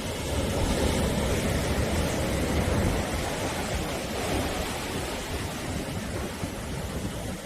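Sea waves washing on the shore in a continuous rush of surf, swelling a little in the first few seconds and then easing.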